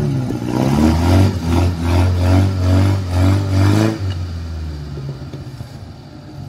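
Suzuki Vitara 4x4's engine revving hard in repeated surges, about two a second, as it claws through deep mud. About four seconds in the throttle eases off and the engine drops to a quieter, fading run.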